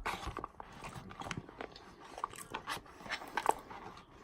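Close-miked chewing and biting of fast food, with irregular wet smacks and crisp clicks from the mouth.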